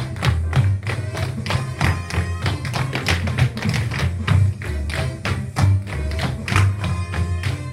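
Recorded music with the quick, rhythmic clicks of tap-dance shoes striking a floor.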